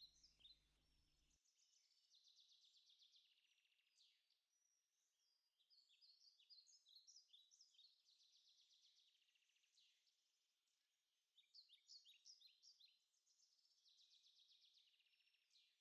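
Near silence with very faint bird calls: scattered short chirps, trills and falling notes, in clusters with short gaps between them.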